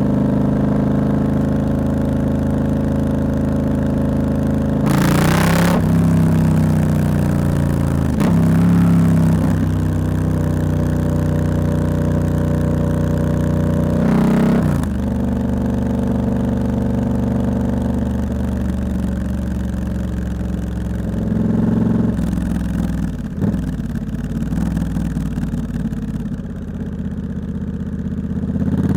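Triumph Scrambler 1200X's 1200 cc parallel-twin engine through a loud aftermarket Hitchcox exhaust, heard from the rider's seat while riding through town: the engine note climbs and drops several times as the rider accelerates, shifts and rolls off, easing down near the end. The recording clips a little on the loudest parts.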